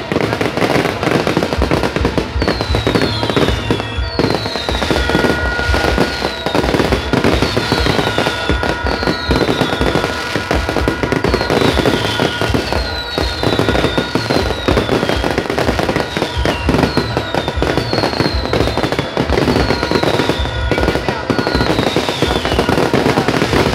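Fireworks display: a dense, continuous run of bangs and crackling bursts, with short high whistles that fall in pitch about once a second.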